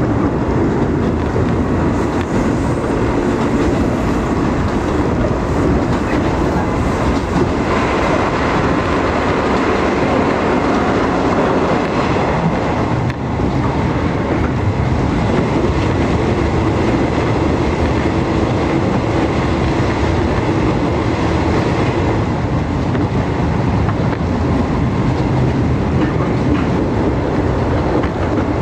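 Train running at speed, heard from inside the carriage: a steady noise of wheels on rail that dips briefly about halfway through.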